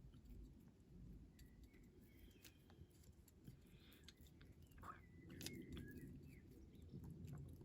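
Near silence: room tone with scattered faint small clicks and a few brief, faint high chirps.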